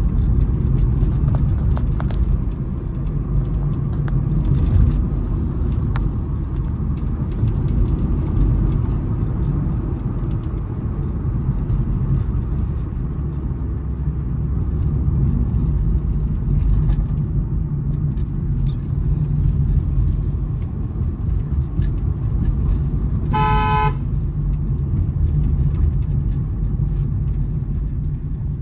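Steady low road and engine rumble of a moving Honda City, heard from inside the car, with one short car horn honk near the end.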